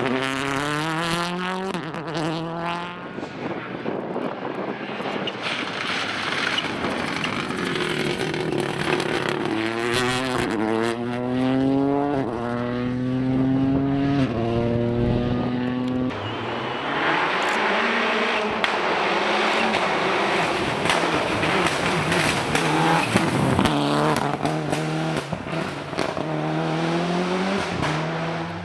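Rally car engine accelerating hard, its pitch climbing and dropping back with each upshift, then a stretch of loud engine and tyre noise as the car runs past, followed by another climb through the gears near the end.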